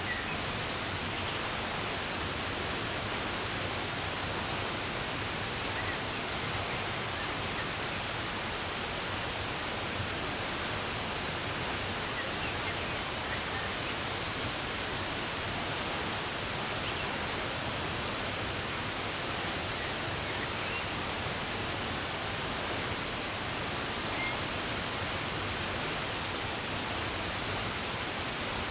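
Steady rush of running water, with faint, scattered bird chirps.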